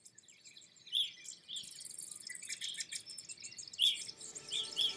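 Small birds chirping: short, sharp chirps spaced a second or so apart over a faint, high, steady twittering.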